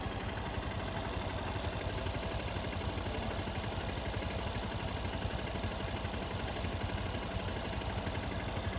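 Motorcycle engine running at a steady speed while riding, an even drone with no change in pitch.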